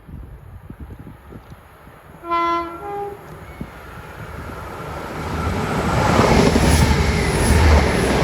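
A passing train sounds a two-tone horn: a short lower note, then a brief higher one, about two seconds in. Its running noise then builds as it approaches and goes by, loudest near the end.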